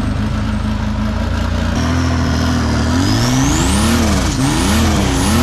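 Off-road competition buggy engine running steadily, then revved hard up and down about three times in quick succession.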